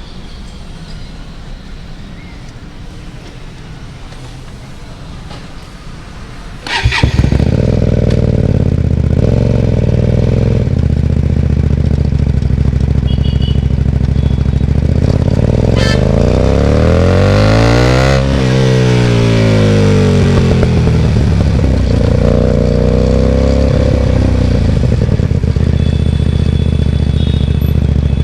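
Hyosung GT250R's V-twin engine through a loud aftermarket Ixxile exhaust, coming in suddenly and loud about seven seconds in, its pitch rising and falling with the throttle. Before that, quieter road noise.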